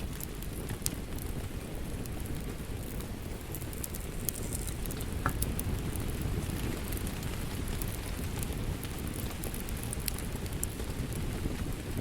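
Wood fire crackling in a fireplace: a steady low rumble of flames with scattered sharp pops and crackles, and a brief hiss about five seconds in.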